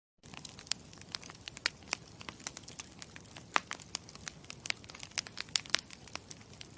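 Campfire crackling: irregular sharp pops and snaps over a low steady hiss, cutting in suddenly at the start.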